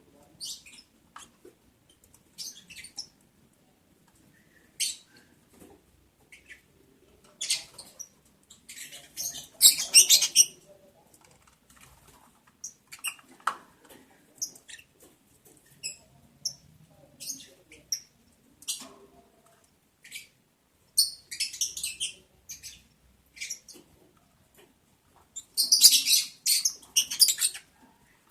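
Lovebirds chirping and squeaking in short, sharp, high-pitched calls, scattered at first, with busier, louder runs of chirps about a third of the way in and again near the end.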